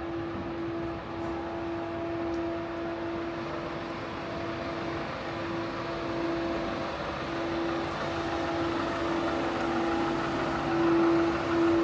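A steady mechanical hum holding one pitch over city street noise, growing somewhat louder near the end.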